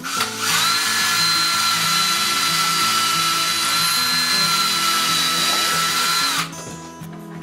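Electric power drill drilling a pilot hole. It spins up with a rising whine, runs at steady speed for about six seconds, then winds down and stops.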